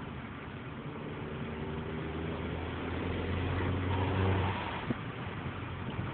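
Car engine heard from inside the cabin, pulling under acceleration and growing louder for about three seconds over steady road noise, then easing off with a single click about five seconds in.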